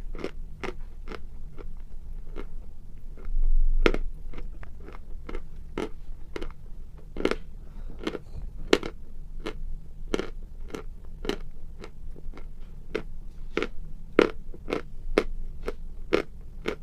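Chalk being bitten and chewed close to the microphone: a steady run of sharp crunches, about two a second.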